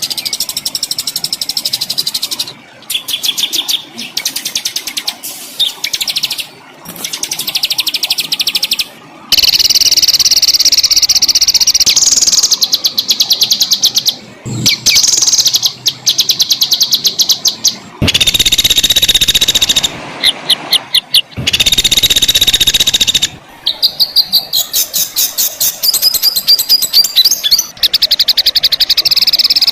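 Loud, high-pitched songbird song: fast rattling trills and harsh buzzy phrases. The song switches abruptly to a different phrase every few seconds, as in a spliced compilation of several birds.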